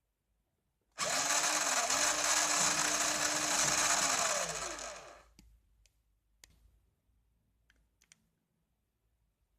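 Electric motor and gear drive of a vintage Radio Shack Wild Ranger RC monster truck starting suddenly, whirring at a steady pitch for about four seconds, then spinning down with a falling pitch. A few faint clicks follow.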